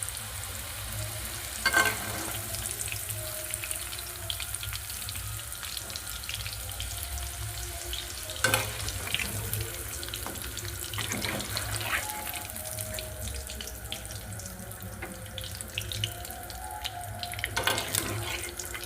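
Water running from a tap into a sink, a steady hiss, with a few sharp knocks of something handled in the sink.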